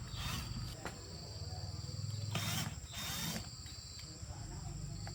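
Steady high-pitched insect trill, with a few short rasping scrapes over it. The loudest scrapes come about two and a half and three seconds in.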